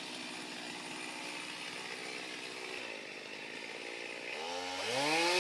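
Chainsaw engine running at low speed, then revved up about four seconds in, its pitch climbing and the sound growing louder before holding at high speed near the end.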